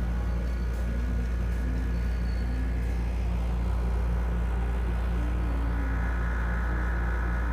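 Closing bars of a karaoke backing track without singing: faint held tones over a steady low rumble.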